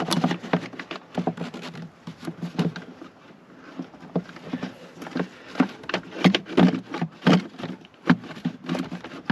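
Irregular clicks and knocks of an air filter housing and its clamps being handled and worked into place in the engine bay of a Mercedes W201 190D, busier in the second half.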